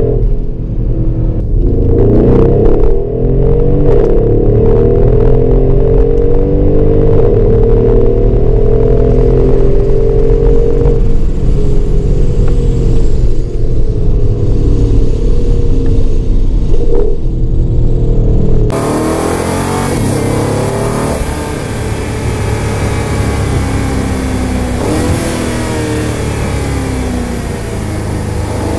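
Mercedes-Benz ML63 AMG's twin-turbo 5.5-litre V8 heard from inside the cabin while driving, its pitch rising and falling through acceleration and gear changes. About two-thirds of the way through, the engine sound changes abruptly to a quieter, brighter version.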